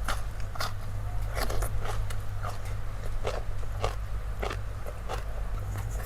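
Close-up crunchy biting and chewing of food, an irregular crisp crunch about every half second, over a steady low hum.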